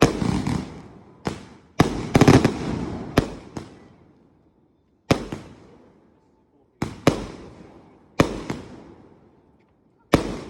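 Fireworks going off: a string of sharp bangs, about a dozen over the ten seconds, each trailing off in an echo. There is a quick cluster of bangs about two seconds in.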